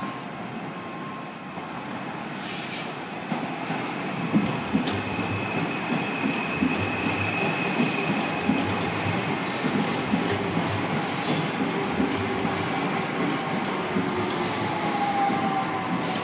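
Docklands Light Railway train running on the track, getting louder over the first few seconds. A high wheel squeal holds through the middle, and the wheels click over rail joints.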